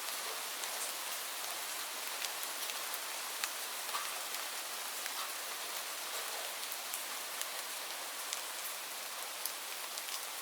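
Steady rainfall: an even hiss with many separate drops ticking sharply on a surface.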